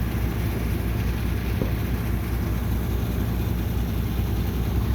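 A heavy machine's engine running steadily, a continuous low drone, while it picks up heavy debris.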